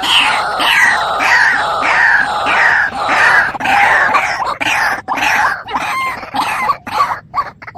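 A bird calling loudly with harsh notes that drop in pitch, repeated about twice a second. After about five seconds the calls change to short rising notes mixed with sharp clicks.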